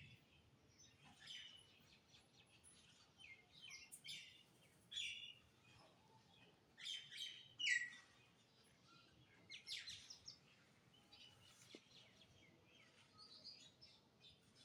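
Small birds chirping: faint, short, high chirps at irregular intervals, the loudest a quick downward-sliding chirp about halfway through.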